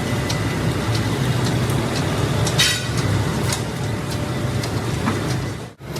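Steady factory machinery noise: a continuous low hum under a dense mechanical din, with scattered sharp metallic clicks and knocks, one louder knock a little before the middle. The sound cuts out briefly just before the end.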